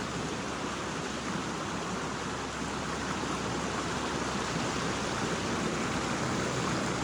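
Creek water running steadily over rocks: an even rushing.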